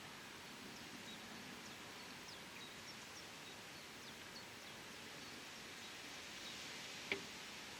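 Faint steady outdoor hiss with scattered short, high bird chirps throughout, and a single sharp click about seven seconds in.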